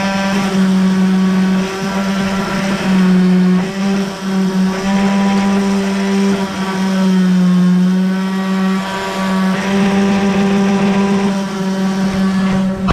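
Electric orbital sander, mounted upside down, running steadily with a strong motor hum; its pitch sags briefly a few times, as under load.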